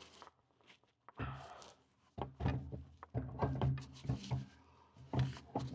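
Irregular clunks and knocks of a heavy solar inverter's metal case bumping against its wall-mount bracket as it is lifted and hooked on, with short gaps between the knocks.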